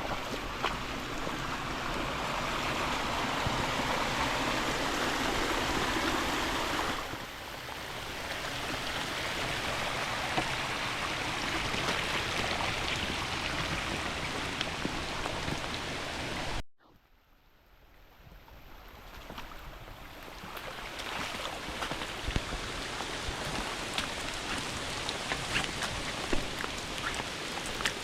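Rain-swollen creek rushing, then steady rain with scattered drops ticking. The sound cuts out suddenly a little past halfway and builds back over a few seconds.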